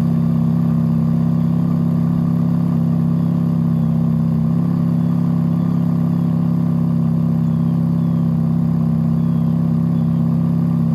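Ferrari F430 Spider's 4.3-litre V8 idling steadily at a constant low rumble.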